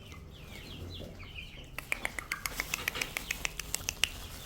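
Chickens peeping with short falling calls, then from about two seconds in a rapid run of sharp taps, about five or six a second.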